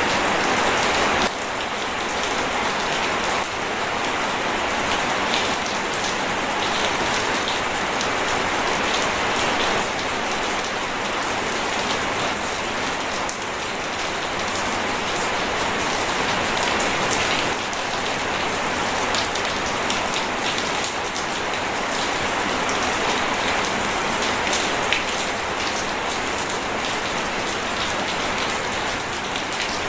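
Steady rain falling, a dense pattering of many drop hits, with no thunder. The level dips slightly about a second in, then holds steady.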